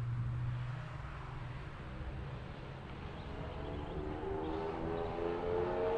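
Rally car's engine at full throttle in the distance as it accelerates away along the stage, its pitch climbing and growing louder in the last couple of seconds.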